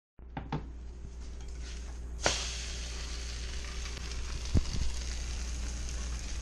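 French toast frying in a pan, a steady sizzle that starts sharply with a click about two seconds in. A few light clicks come before it, and a dull thump sounds a little past the middle.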